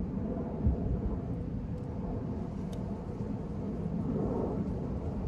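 Steady low outdoor rumble with a single soft thump about a second in.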